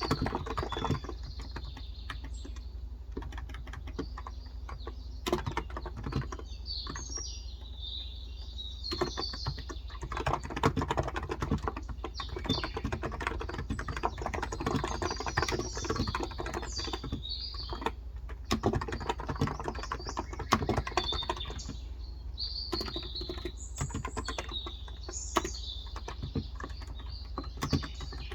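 Typing on a Cox Endeavor electrostatic capacitive tenkeyless keyboard with 35 g switches: irregular flurries of soft key clicks. Birds chirp in the background.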